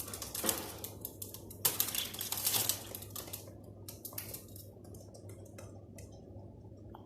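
Birds pecking at feed: a quick, irregular run of clicks and taps with some rustling, busiest in the first three seconds and sparser after.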